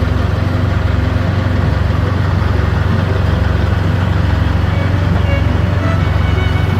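A heavy vehicle engine idling steadily with a low, even hum.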